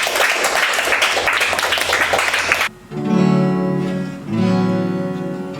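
A dense, noisy passage cuts off suddenly a little under three seconds in. Acoustic guitar chords follow, strummed and left ringing, with one chord change about a second and a half later.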